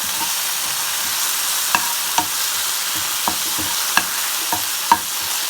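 Chopped garlic, curry leaves, chillies and chilli sauce sizzling in a little hot oil in a pan while being stirred, with the spoon knocking against the pan several times.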